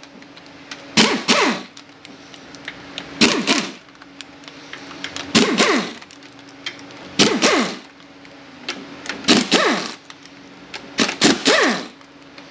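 Ratchet wrench working the 12 mm bolts out of the pump on a Kia A6LF2 automatic transmission, clicking in short double bursts about every two seconds, over a steady low hum.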